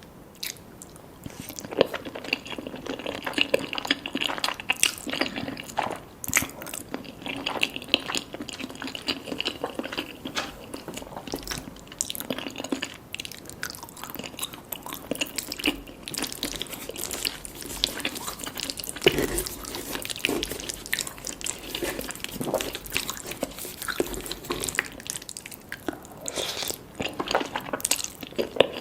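Close-miked eating sounds: crunching and chewing of crispy fried chicken skin and wet, slurpy bites of saucy spaghetti, a rapid irregular run of crackles and smacks.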